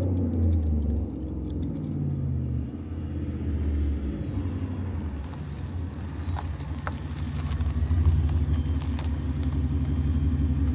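Supercharged 5.0 V8 of a 2022 Ford F-150 running through a cat-delete Y-pipe and straight-through muffler, the truck driving past: the engine note drops in pitch over the first few seconds, then the deep exhaust rumble builds again and is loudest about eight seconds in.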